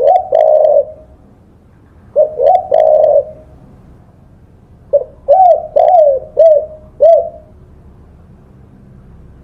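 Spotted dove (tekukur) cooing: three phrases of short, low, rounded coo notes that each rise and then fall in pitch. The third phrase, about five seconds in, is the longest, with five notes.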